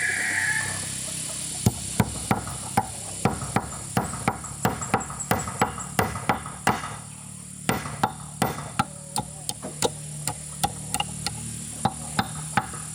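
A tool striking wood over and over, sharp knocks at roughly two to three a second, over a low steady hum.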